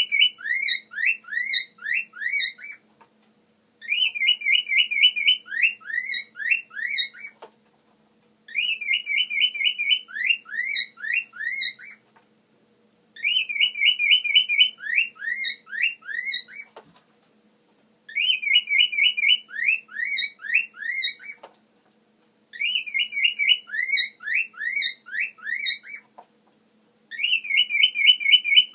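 Cockatiel whistling the same phrase over and over, about every five seconds: each time a quick warbling trill, then a run of five or six short rising notes, then a pause.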